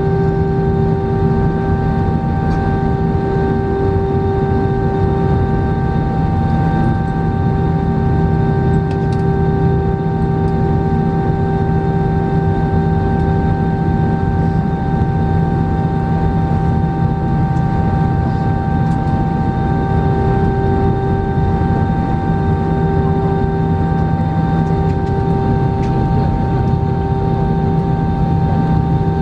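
Steady airliner cabin noise on the ground before takeoff, with the jet engines running at idle: a dense low hum with several steady whining tones over it.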